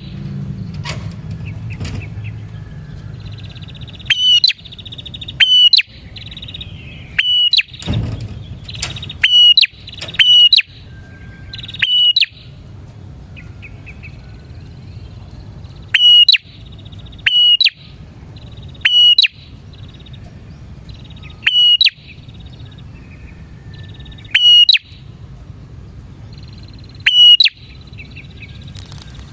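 Prinia (prenjak) calling in full voice: loud, sharp, short notes repeated about every one to two seconds, over a softer continuous buzzy trill and a low steady hum.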